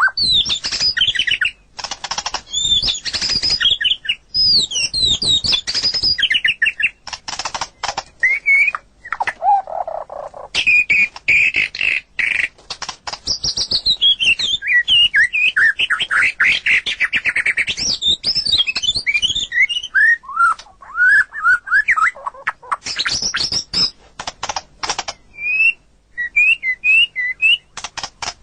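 White-rumped shama singing a long, varied song: a fast run of clear whistles and quick sliding notes, broken by harsh chattering notes, with a lower, mellow note about ten seconds in.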